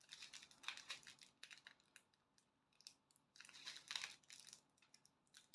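Faint crinkling of small plastic bags of diamond-painting drills being handled, in a few short spells of rustles and light ticks.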